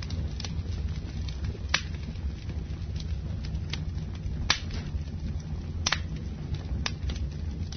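Campfire burning: a steady low rumble of flames with scattered sharp crackles and pops, the loudest about 2, 4.5, 6 and 7 seconds in.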